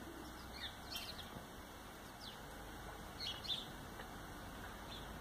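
Small birds chirping faintly: a handful of short, high chirps scattered through, the loudest about three and a half seconds in.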